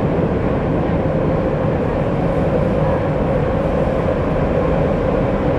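Minatomirai Line subway train running steadily through a tunnel, heard from inside the car: a continuous rumble of wheels and running gear with a faint, steady whine above it.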